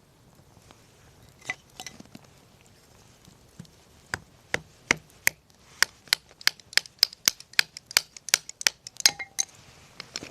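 Burning firewood in a campfire crackling: after a few scattered snaps, a quick run of sharp pops from about four seconds in, about three a second, stopping shortly before the end.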